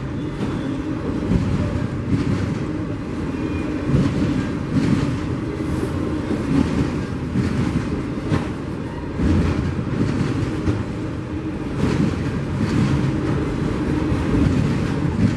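A train passing over the crossing: a steady low rumble with irregular clatter from its wheels.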